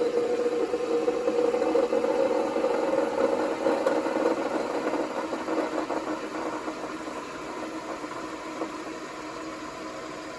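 Saeco Spidem Cappuccino Instantly espresso machine running as it makes a cappuccino: a steady buzzing hum with a slight rattle, easing off after about six seconds.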